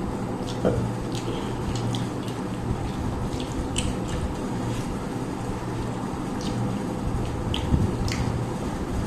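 Scattered small wet clicks and smacks of people eating rice and fish curry by hand, over a steady low hum.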